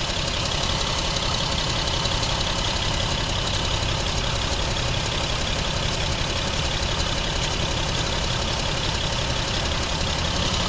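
A 2011 Jeep Wrangler's 3.8-litre V6 idling steadily. The engine has a persistent misfire and an intermittent camshaft position sensor signal.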